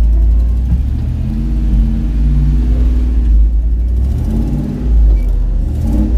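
Jeep Wrangler YJ's engine running under load on an off-road trail, its pitch rising and falling as the throttle changes, with a heavy low rumble heard from inside the cab.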